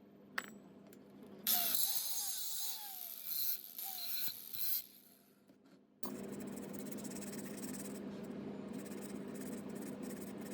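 Scraping and rubbing on metal for about three seconds, with squeaky gliding tones, while old ceiling-fan parts are worked on. After a short pause a steady hum with a hiss sets in and keeps going.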